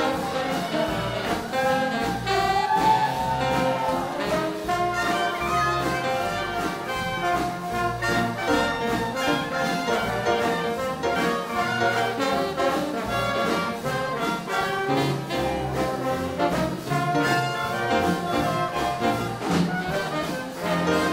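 Live big band playing hot swing-era jazz, with trumpets and trombones leading over a steady bass and drum beat.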